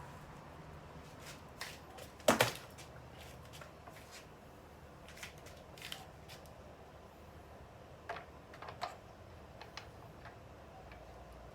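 Hand tools and parts being handled, giving scattered light clicks and knocks, with a louder clatter about two seconds in and a few small clicks near the end.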